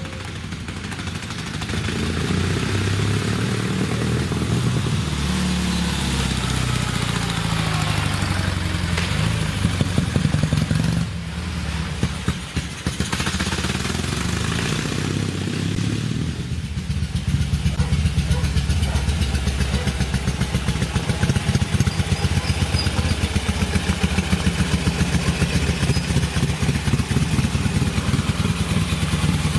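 Dnepr 12 sidecar motorcycle's 750 cc flat-twin engine running, its pitch rising and falling through the first half, then settling into a steady, even beat from a little past halfway.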